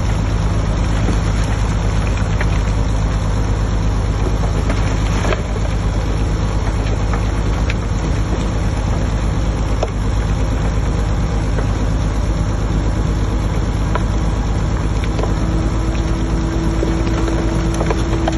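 Heavy diesel earthmoving machinery running steadily, with scattered clicks and knocks. A faint held whine joins for the last few seconds.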